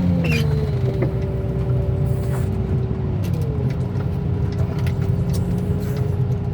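Heavy scrap-yard machinery's diesel engine running steadily. Its pitch drops about once and again a few seconds in as the hydraulics are worked, with a few scattered knocks.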